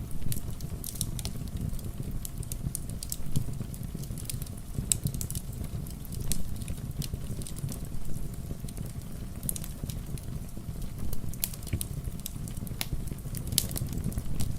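Wood fire crackling with frequent, irregular sharp pops over a steady rumble and patter of rain.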